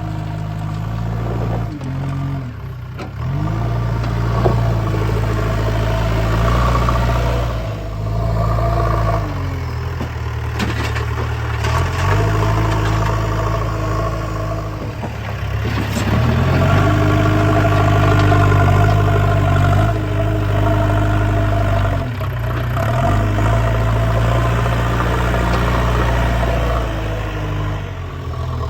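Diesel engine of a JCB 3DX backhoe loader working while it loads mud. The engine speed rises and falls every few seconds as the machine digs, lifts and dumps.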